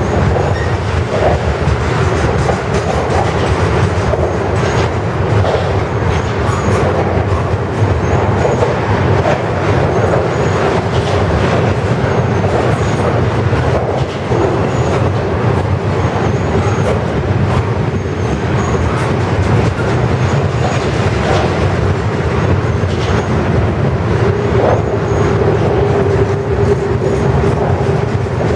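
Double-stack intermodal well cars rolling steadily past at speed: continuous wheel-on-rail rumble with a rhythmic clickety-clack of wheels over rail joints. A faint steady wheel squeal comes up near the end.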